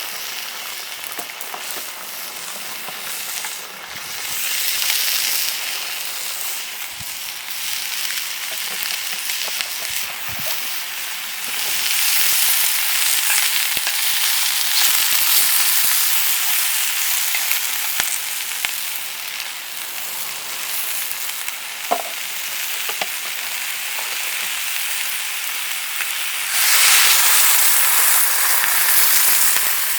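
Food sizzling in a hot pan: a steady frying hiss with small pops that swells louder several times, loudest near the end.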